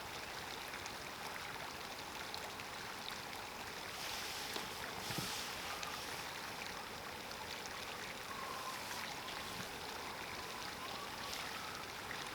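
Steady, fairly quiet rushing of a creek flowing nearby.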